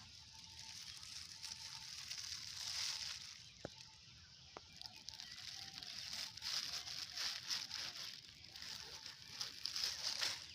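Faint rustling and crackling of old plastic litter being handled and crumpled, with scattered small clicks over a steady high hiss.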